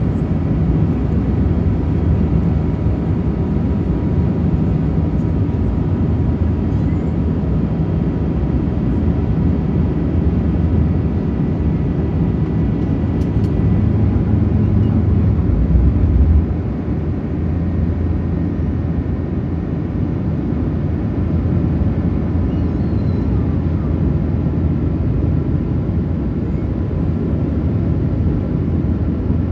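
Airbus A380-800 cabin noise: the steady low rumble of the engines and the airflow, heard from inside the cabin. It is loudest just before the middle, then drops a step about halfway through and stays steady at that lower level.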